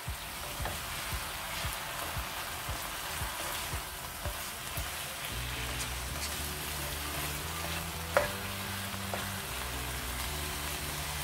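Chicken and capsicum masala sizzling in a nonstick wok over a high gas flame while a spatula stirs it, cooking the liquid off. The stirring strokes come about twice a second for the first few seconds.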